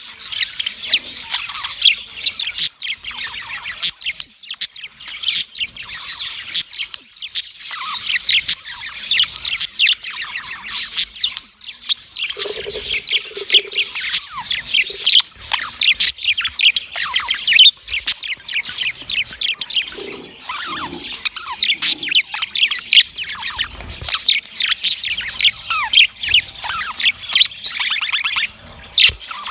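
Budgerigar and lovebirds chirping: a dense, continuous stream of rapid short calls with no break.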